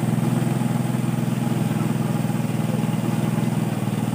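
Engine of a water pump running steadily at a constant speed, a fast even chugging with no change in pace.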